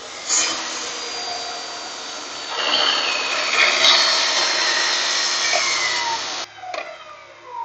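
Table saw running and cutting through a wooden board: the noise rises as the blade goes into the wood about two and a half seconds in, then the saw is switched off and its whine falls in pitch as the blade spins down.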